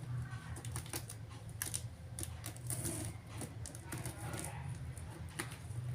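Irregular light clicks and taps of objects being handled, over a steady low hum.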